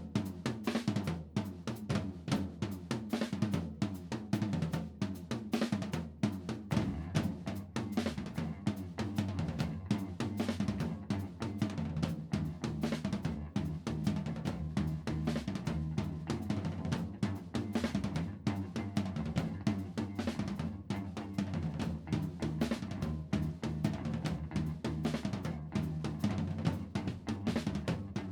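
Band music led by a drum kit playing a dense run of snare and bass drum hits, with low sustained notes underneath.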